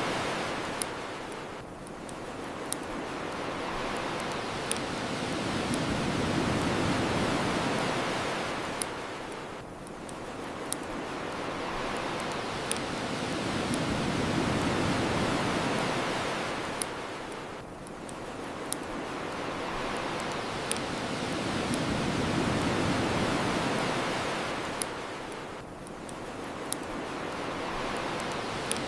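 Ocean waves washing onto the shore, a hiss that swells and falls back about every eight seconds, with the sharp pops of a crackling bonfire every couple of seconds.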